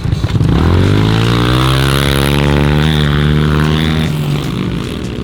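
Dirt bike engine revving up hard and holding high revs, then fading away about four seconds in.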